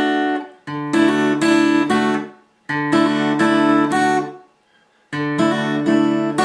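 Acoustic guitar fingerpicked: the thumb plucks the open fourth string, then the fingers pluck the top three strings together while the middle finger is pulled off and hammered back on. The short phrase repeats four times with brief pauses between.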